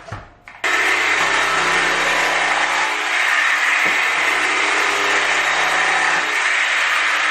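An electric power tool's motor running steadily at a constant pitch, starting abruptly about a second in and continuing without a break.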